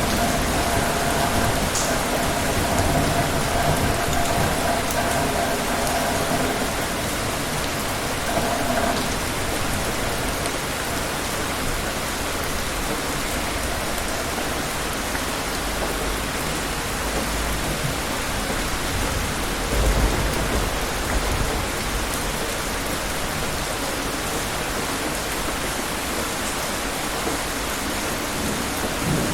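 Steady, heavy rain falling on a surface, with a low rumble of thunder about two-thirds of the way through. A faint steady hum sits under the rain for the first third.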